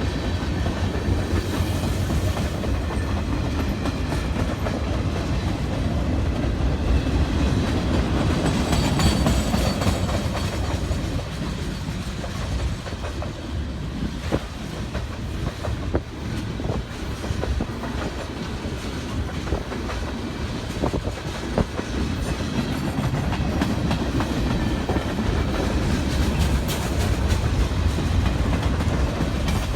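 A freight train rolling past: a steady low rumble of cars with wheels clicking over rail joints.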